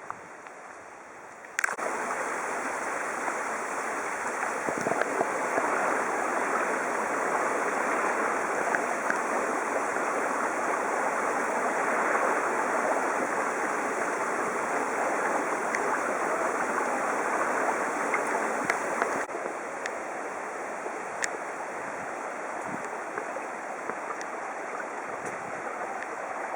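Fast-flowing stream water rushing steadily. It starts suddenly about one and a half seconds in and drops abruptly to a softer rush about two-thirds of the way through.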